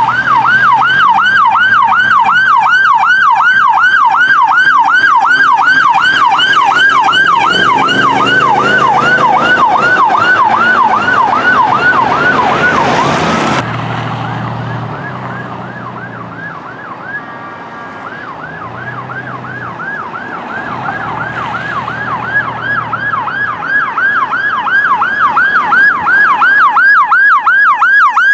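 Emergency vehicle electronic siren on a fast yelp, about three sweeps a second, loud and then cutting off sharply about halfway through. After a quieter stretch with heavy engine noise, a yelping siren comes in again and grows louder toward the end.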